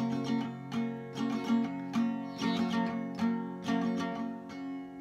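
Acoustic guitar playing on alone after the singing has stopped, as the song's outro. Notes or chords are struck about twice a second over a held low note, and the playing grows a little quieter near the end.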